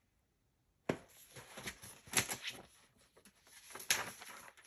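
Paper rustling and handling of a book as a page is turned, starting with a sharp click about a second in, with louder rustles around the middle and near the end.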